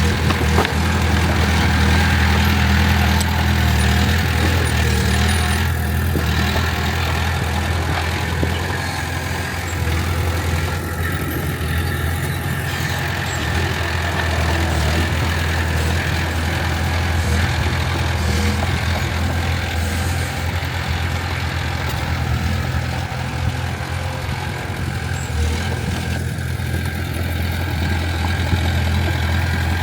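Heavy earthmoving machine's diesel engine running steadily at low revs, a deep continuous drone.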